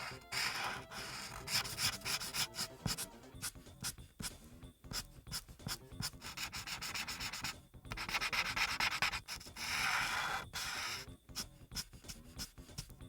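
Ohuhu Kaala series marker nib rubbing on paper while coloring in, with quick short strokes several times a second and a few longer sweeping passes.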